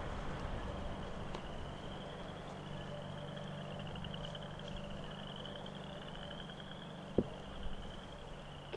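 A steady, high-pitched pulsing trill from a distant frog chorus, over a low steady hum. A single sharp click sounds about seven seconds in, followed by a few soft knocks.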